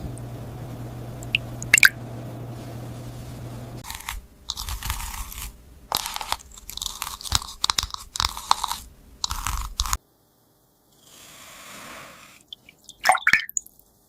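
Close-up crunching and crackling as plastic is handled, in irregular bursts over a low steady hum. The sound cuts off abruptly, then a few sharp clicks come near the end.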